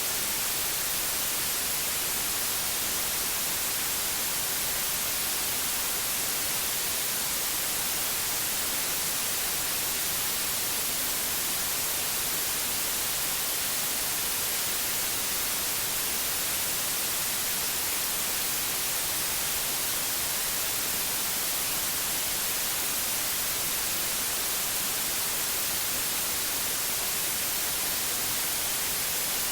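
Steady synthetic white noise: an even, unbroken hiss, strongest in the treble, with no changes.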